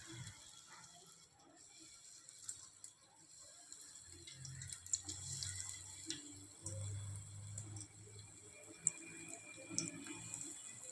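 Breaded paneer cubes deep-frying in hot oil in an aluminium pot: a faint steady sizzle with scattered sharp crackles.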